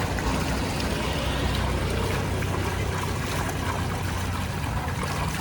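A motor running steadily with a low hum, under a steady wash of water-like noise.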